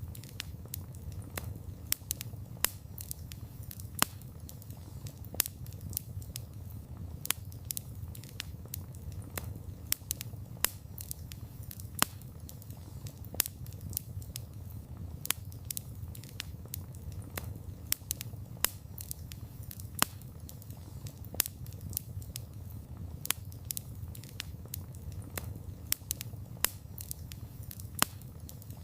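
Wood fire burning: a steady low rumble of flames with dense crackling and frequent sharp pops of burning wood.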